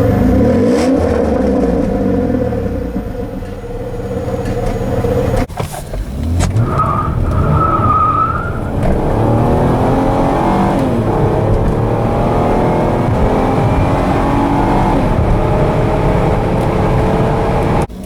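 2006 Pontiac Torrent's 3.4-litre V6 at full throttle from a standstill under traction control, its note rising, dropping at an upshift and climbing again. A sudden break about five seconds in separates it from the end of an earlier stretch of engine running. A brief high squeal comes shortly after the launch.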